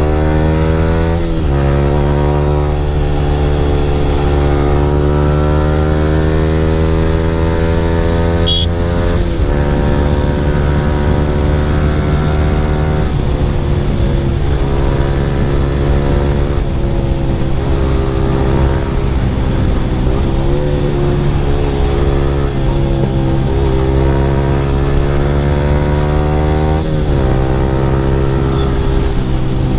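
Yamaha R15 V3's single-cylinder engine through an Akrapovic R9 aftermarket exhaust, ridden under steady throttle. The pitch climbs slowly through each gear and drops at upshifts about a second in, around nine seconds in and near the end.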